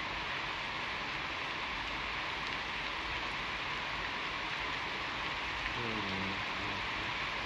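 Steady rain falling, an even hiss of rain on surfaces. About six seconds in, a brief low pitched sound falls in pitch over the rain.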